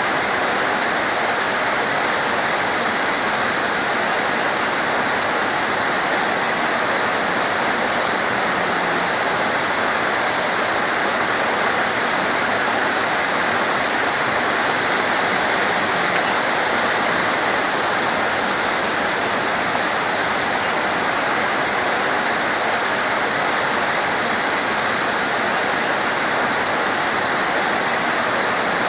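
Heavy rain pouring down steadily, a dense even hiss with no let-up. Two brief sharp ticks stand out, one about five seconds in and one near the end.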